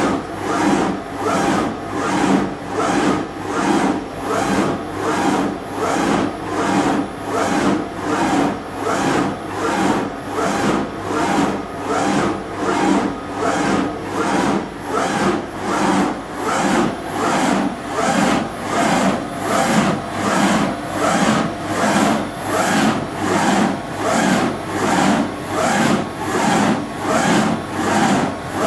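BRAND 850 NE CNC surface grinder running, its noise swelling and fading in a quick, even rhythm, typical of the table reciprocating the work under the grinding wheel.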